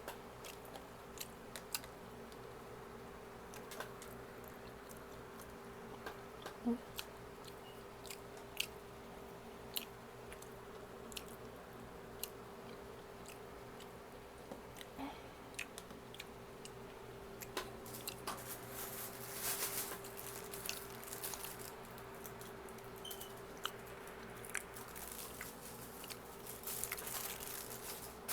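A person eating close to the microphone: chewing and biting, with scattered short clicks and a faint steady hum underneath. The eating noises grow busier and hissier in the second half.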